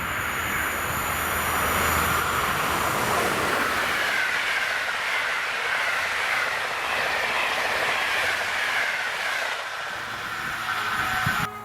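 A train passing close by, its wheels running on the rails with a steady rushing clatter. The sound cuts off abruptly near the end.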